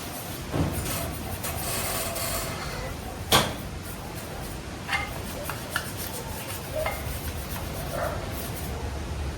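Hand work on machine parts: scattered light knocks and clicks with some rubbing, one sharp click about a third of the way in.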